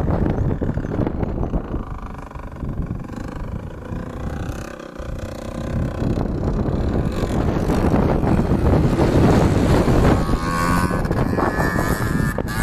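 Yamaha DT125R's two-stroke single-cylinder engine running as the dirt bike rides across the field. It drops back for a few seconds, then grows louder again through the second half, rising in pitch near the end, over a rumble of wind on the microphone.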